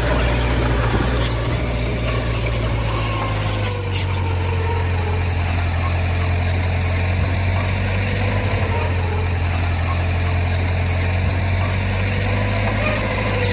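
Diesel engine of heavy earthmoving equipment running steadily, with a few light clinks about four seconds in.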